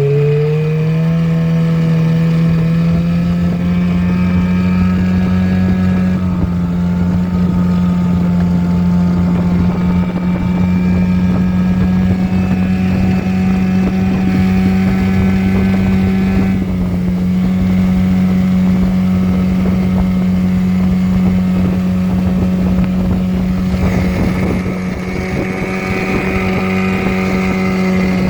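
7.5 hp Mercury outboard motor pushing the boat along, its pitch rising just after the start as the throttle opens, then holding a steady drone.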